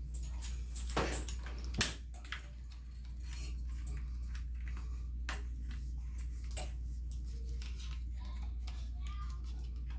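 Scattered light clicks and knocks of plastic shower-head fittings being handled and screwed together, over a steady low hum.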